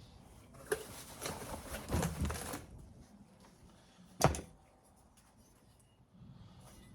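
Hand tools working on an engine's exhaust fittings: about two seconds of rapid clicking and clattering, then a single sharp metallic knock about four seconds in.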